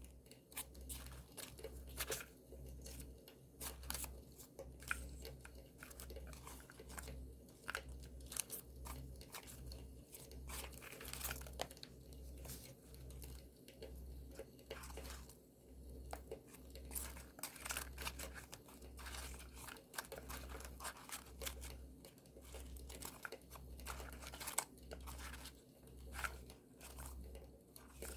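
Campfire crackling, with many sharp irregular pops, mixed with paper being handled, torn and crumpled.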